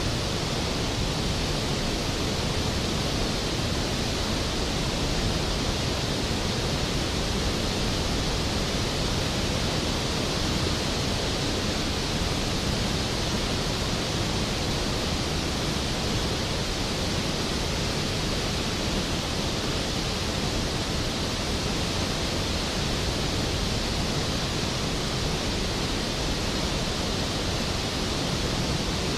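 Skógafoss waterfall: a large volume of water plunging and crashing into its plunge pool, a loud, steady, unbroken rush of noise.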